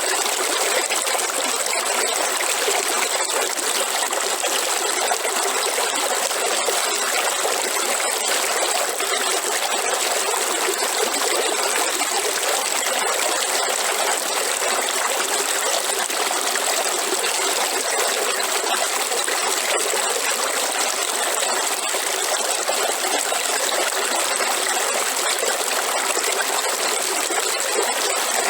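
Waterfall: water pouring and splashing in a steady, unbroken rush, with little deep rumble.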